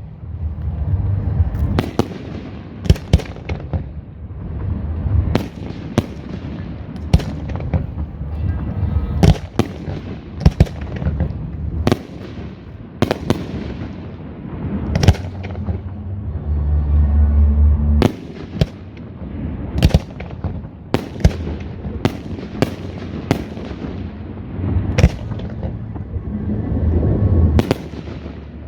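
Aerial fireworks shells bursting in a rapid, irregular series of sharp reports, about one to two a second, over a continuous low rumble.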